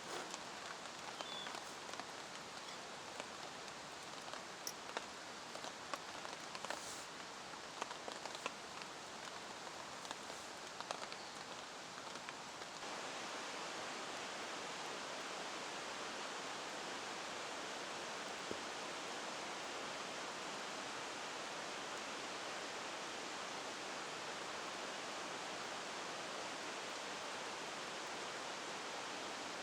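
Rain falling steadily, with scattered sharp ticks of drops striking nearby surfaces. About twelve seconds in, the sound changes abruptly to an even, slightly louder hiss of rain.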